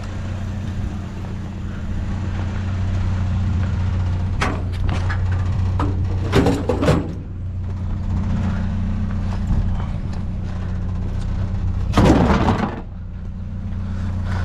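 A vehicle engine idling steadily, with loud clattering knocks of items being handled three times: about four seconds in, around six to seven seconds in, and about twelve seconds in, the last the loudest.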